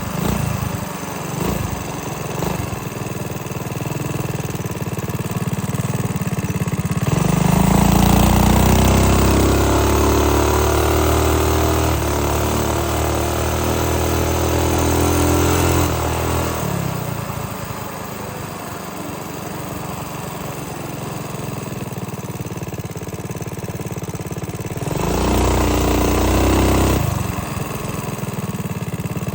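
Minibike's small engine running while riding, throttled up hard twice: a long run of higher revs from about seven seconds in to about sixteen seconds in, then a short burst near the end, dropping back to low revs between.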